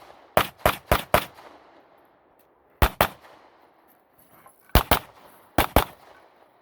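Glock 17 9mm pistol firing rapidly in a timed stage: four quick shots about a quarter second apart, then three pairs of shots with gaps of a second or more between the groups.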